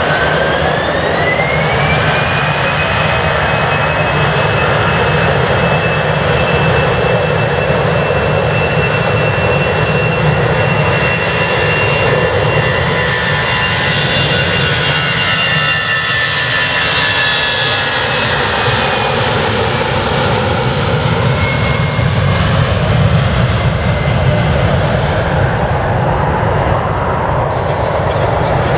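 Jet airliner departing at takeoff thrust: the engines' whine rises in pitch over the first couple of seconds, then holds steady over a heavy continuous rumble that swells in the middle as the aircraft passes and climbs away, the whine fading near the end.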